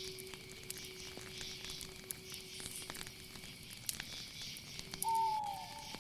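Night nature ambience: a pulsing high chorus of insects with scattered clicks over a low steady tone, and a short falling call about five seconds in.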